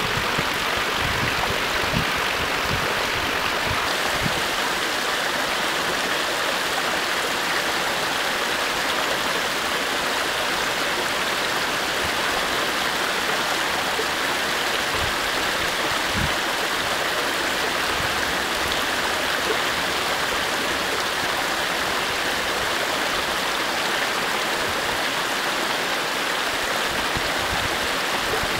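Running water rushing steadily, like a stream flowing over stones.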